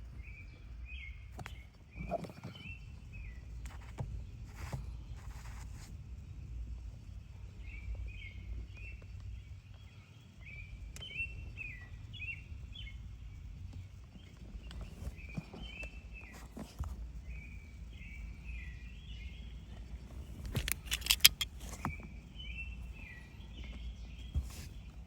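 Small birds chirping in short repeated phrases over a steady low outdoor rumble, with scattered clicks and knocks and a sharp cluster of clicks about twenty seconds in.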